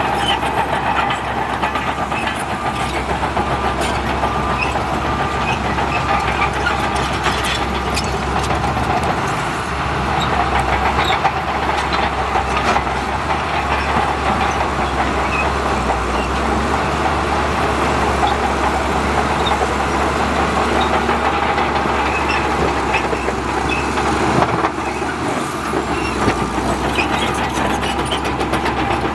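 Heavy diesel earthmoving machinery working: a bulldozer or dump truck engine runs steadily under load, with frequent sharp metallic clanks and knocks.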